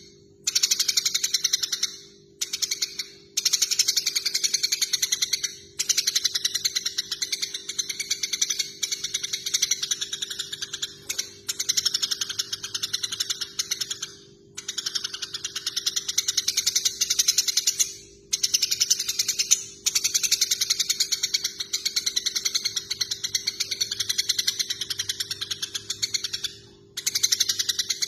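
Eurasian tree sparrows chattering in fast, unbroken runs of chirps, stopping for a short pause every few seconds: the excited chatter of sparrows fighting. A steady low hum runs underneath.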